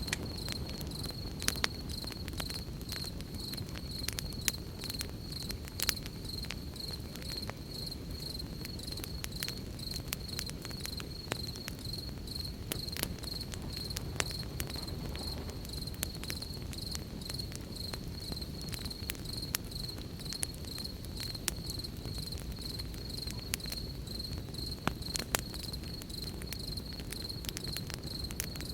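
Crickets chirping in a steady, rapidly pulsing high trill, over a campfire crackling with sharp pops at irregular intervals and a low rumble underneath.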